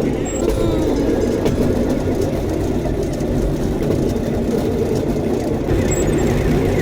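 Rail bike's steel wheels rolling along the track with a steady rumble.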